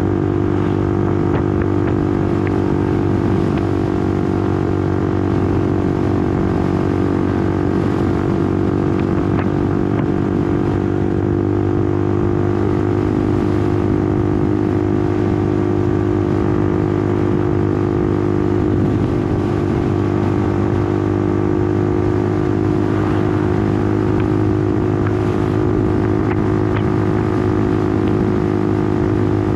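Honda CBR150R's single-cylinder engine running at a steady, unchanging pitch while the motorcycle is ridden, heard from on the bike.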